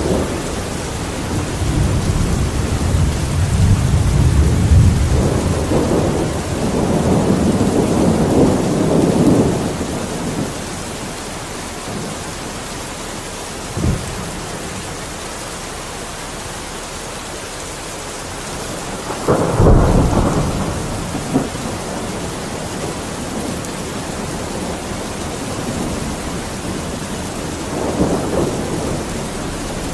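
Steady rain with thunder: a long low rolling rumble through the first third, a short crack about halfway, a sharp loud thunderclap about two-thirds in, and a softer rumble near the end.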